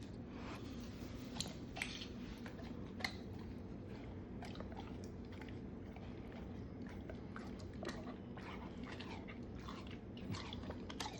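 Pit bull chewing a piece of candy: a string of faint, irregular wet clicks and smacks from its mouth.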